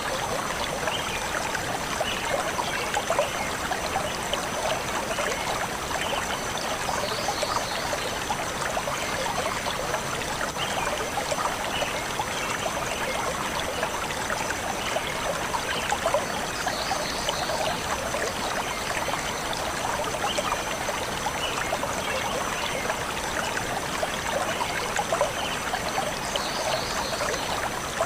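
A shallow forest stream flowing and trickling steadily over stones. Brief high bird chirps come about every ten seconds.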